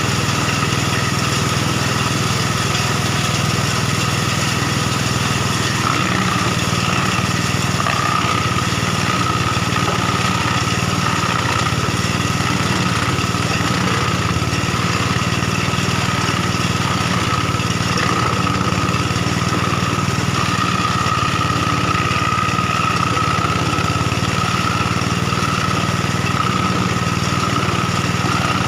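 Engine-driven wood crusher (sawdust machine) running steadily, with a steady whine joining in about six seconds in.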